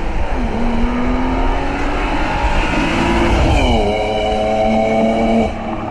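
Car engine accelerating: its pitch climbs steadily, then drops sharply about three and a half seconds in as it shifts up, and it carries on pulling. The sound eases off a little near the end.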